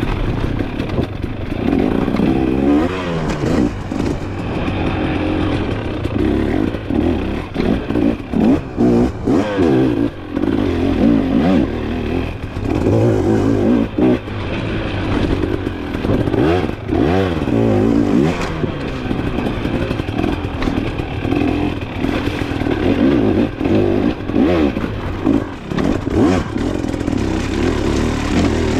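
Off-road dirt bike engine being ridden hard, its pitch repeatedly rising and falling as the throttle is opened and closed through the ride.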